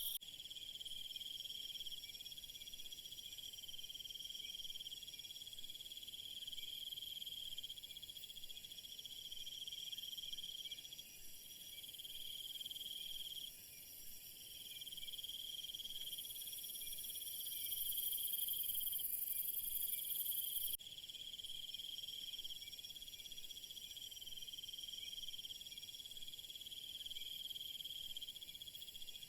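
A steady chorus of many insects, likely crickets, trilling at several high pitches at once. The highest trilling swells louder from about 16 seconds in, then drops off abruptly at about 21 seconds, as if at an edit.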